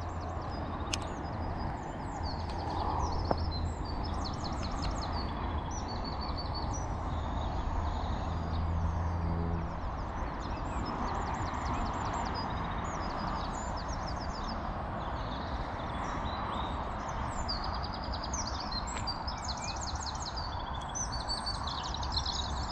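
Songbirds singing, short chirping phrases repeating throughout over a steady outdoor background hiss. A low steady hum sits under the first half and stops about ten seconds in.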